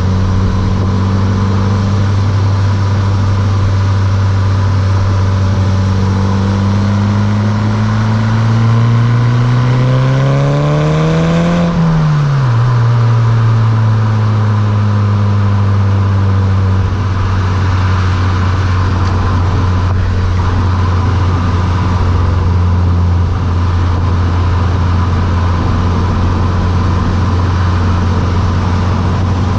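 Mk6 Volkswagen GTI's turbocharged four-cylinder engine running through a Beluga exhaust under way. It holds a steady drone, pulls up through the revs for several seconds, drops off sharply about twelve seconds in, and settles back to a steady cruise drone.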